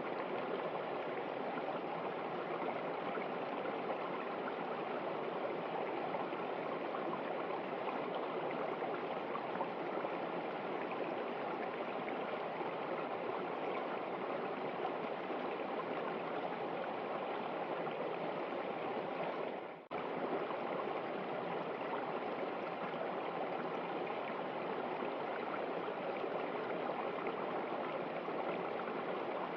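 River water running steadily, a continuous even rush. A little past the halfway point it briefly fades away and then comes straight back.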